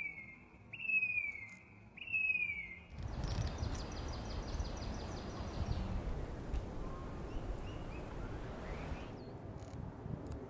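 A small bird's clear whistled call: three short notes, each falling in pitch, about a second apart. After about three seconds a steady rumbling noise, like wind on the microphone, takes over.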